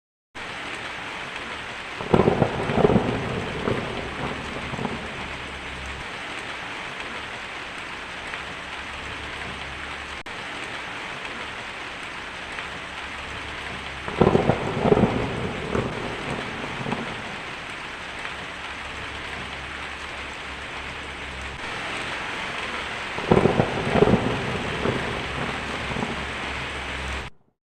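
Steady rainfall with three rolls of thunder, each a cluster of cracks dying away over a few seconds, about two seconds in, around the middle and near the end. The rain starts just after the beginning and cuts off suddenly near the end.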